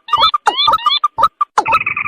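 Recorded rail calls played as a hunting lure: a fast string of short croaking notes with rising whistled notes over them, then a longer, steadier buzzy call starting about a second and a half in.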